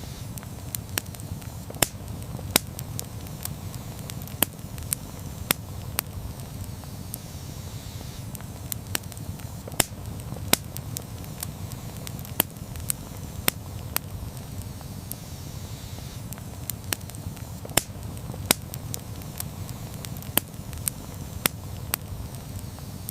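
Campfire burning with a steady low rumble of flames and sharp, irregular wood crackles and pops, about one or two a second.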